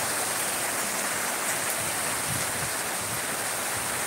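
Heavy monsoon rain pouring steadily, a constant hiss of rain on the ground and standing water.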